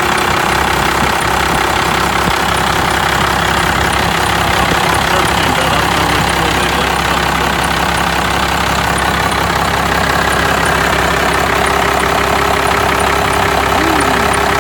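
1998 12-valve Cummins 5.9-litre inline-six turbo diesel idling steadily, still cold shortly after a cold start, with an even diesel clatter.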